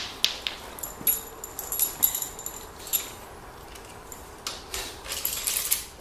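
Metal parts of a guard (fender) roller clinking and clicking as they are handled and fitted together, with short ringing metallic clinks and a rustling scrape near the end.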